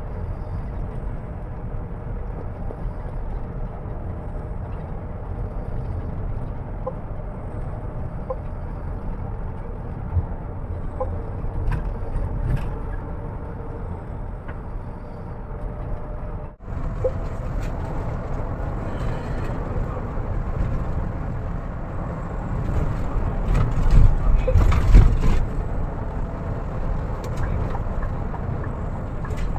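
Steady low rumble of a moving bus, its engine and road noise heard from inside. There is a brief break about halfway through, and the rumble swells louder for a couple of seconds later on.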